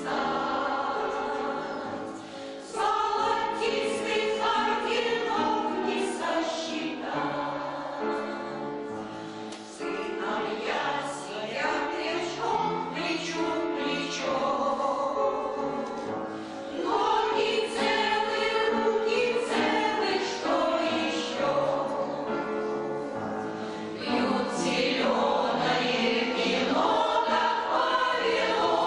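Amateur choir of labour veterans singing a song in several voices. The singing comes in phrases with brief dips between them.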